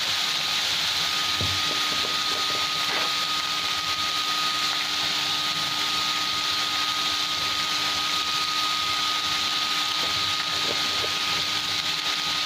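Diced potatoes frying in oil in a kadai: a steady sizzling hiss. A thin steady whine comes in about a second in, and there are a few faint taps.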